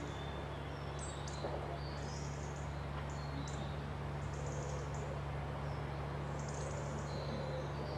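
Wild birds chirping and whistling in short, high calls scattered throughout, over a steady low hum and an even hiss.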